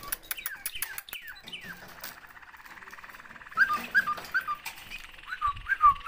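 Cage birds chirping: runs of short, falling whistled notes, with a few sharp clicks in the first second or so and a fast buzzy trill in the middle.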